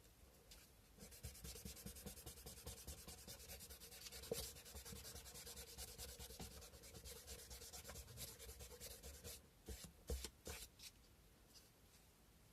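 Sandpaper rubbed by hand over a cow-bone fish hook carving in quick back-and-forth strokes, faint. The steady rubbing stops about nine and a half seconds in, followed by a few separate strokes.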